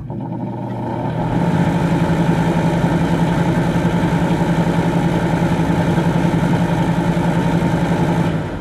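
Electric fan switched on and coming up to speed: its motor hum rises in loudness and steps up in pitch over the first second and a half. It then runs with a steady whirring hum, dropping away near the end.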